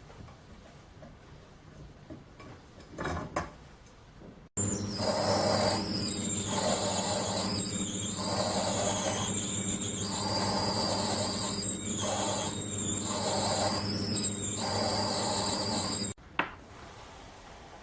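A power tool running for about twelve seconds, with a low hum and a loud high-pitched whine that dips about once a second; it starts and stops abruptly.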